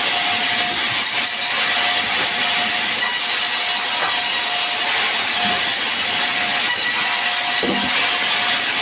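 Sawmill saw cutting sengon wood, a steady loud hiss with faint whining tones coming and going.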